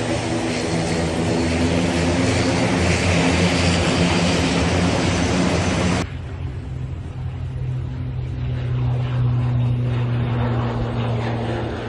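Propeller aircraft engines running, a loud steady drone with a noisy rush over it; about six seconds in the sound cuts abruptly to a quieter, steady low hum.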